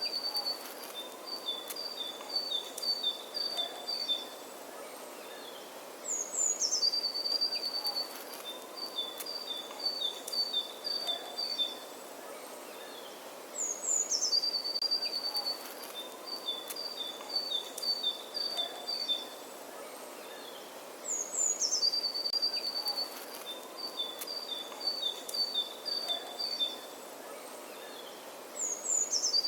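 Songbird singing the same phrase over and over, about every seven and a half seconds: a few high falling notes, then a quick run of notes alternating between two pitches, over a steady outdoor hiss.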